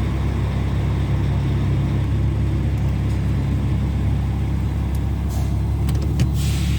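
A heavy vehicle's engine running steadily with a low, even drone, and a few faint clicks near the end.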